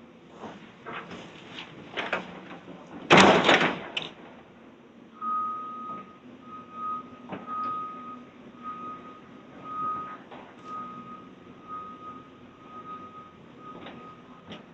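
Demolition debris clattering, then one loud crash about three seconds in as material drops. From a little after the crash, a heavy machine's back-up alarm beeps repeatedly on one high tone over the hum of its running engine.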